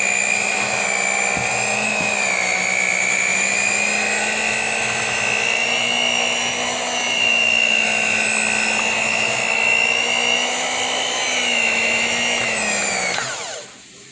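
Electric kitchen mixer running steadily with a high motor whine, its pitch drifting a little under load as it mixes butter; about 13 seconds in it is switched off and winds down with a falling whine.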